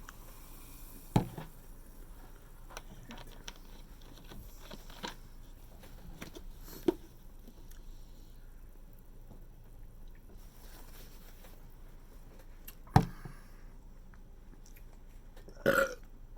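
Close-up eating sounds from a seafood boil: wet squishing and chewing, broken by a few sharp knocks and clicks.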